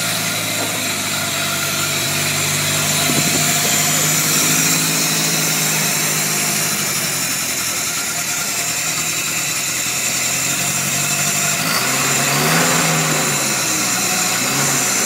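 Skoda 1000 MB's rear-mounted 988 cc four-cylinder engine idling steadily on its first run after standing twelve years, with a brief rise and fall in engine speed about twelve seconds in.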